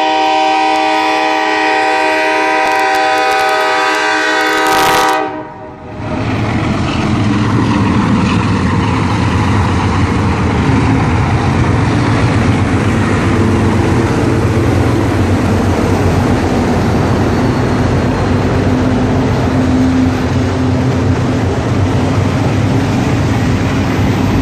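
Freight train's air horn sounds one long chord for about five seconds and then cuts off. The diesel locomotive and a string of covered hopper cars then roll past close by, with a steady, loud rumble and the rolling clatter of wheels on rail.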